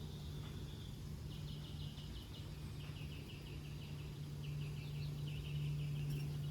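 A bird chirping in quick, high trills, about eight notes a second, in three short runs. A steady low hum runs underneath.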